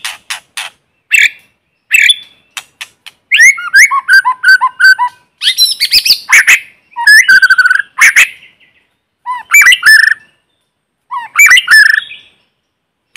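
White-rumped shama singing: short calls near the start, then long, varied phrases of whistled and chattering notes with brief pauses between them. This is the kind of challenge song used to provoke rival males. There is no background noise between the phrases.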